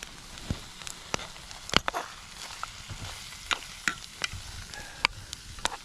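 Wood campfire crackling: a soft hiss with sharp, irregular pops and snaps.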